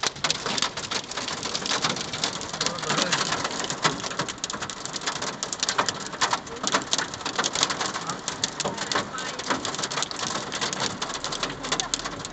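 Hailstones and heavy rain striking hard surfaces: a dense, irregular clatter of sharp ticks and taps.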